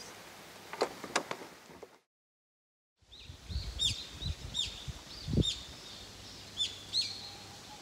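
A songbird calling over and over in short, clear notes that each drop in pitch, coming in loose runs of two or three. A second-long dropout about two seconds in breaks the sound, and a few low bumps sit under the first calls.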